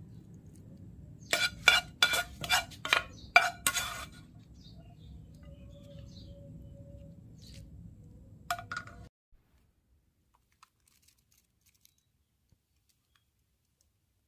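A quick run of about eight hard, ringing clinks over a low steady hum, then another clink a few seconds later; the sound cuts off suddenly soon after.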